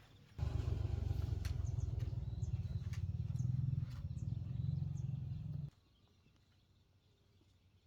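A small engine running steadily, starting abruptly just after the start and cutting off abruptly after about five seconds, with birds chirping faintly over it.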